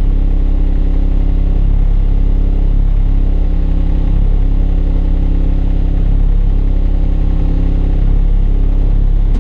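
Bus engine running with a steady low hum, heard from the driver's cab.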